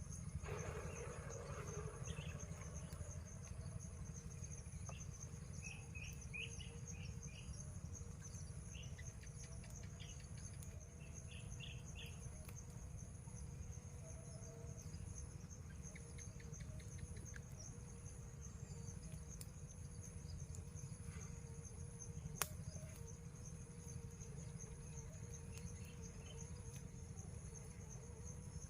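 Insects chirring in two steady high tones, with short groups of quicker chirps now and then, over a low steady rumble. One sharp click about twenty-two seconds in.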